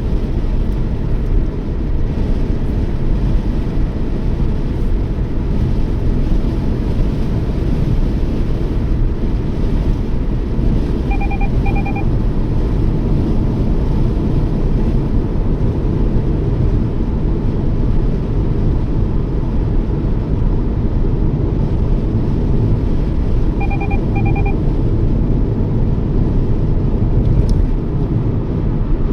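Steady low rumble of road and engine noise inside a Toyota Yaris being driven. A short electronic double beep sounds twice, about twelve seconds apart.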